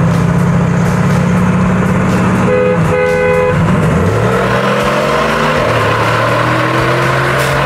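Car engine running at a steady note during a rolling start. Two short horn honks about two and a half seconds in give the start signal. The engine then pulls hard under full throttle, its note climbing steadily.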